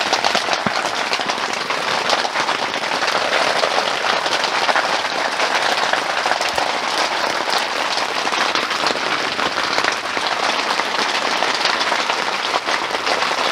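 Heavy rain falling steadily on the tent, heard from inside: a dense, even hiss of countless drops striking the fabric.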